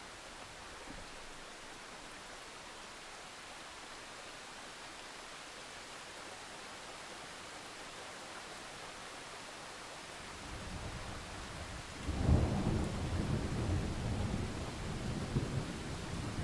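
Steady rain hiss, then thunder: a low rumble builds about ten seconds in and breaks into a loud clap about two seconds later, rolling on to the end.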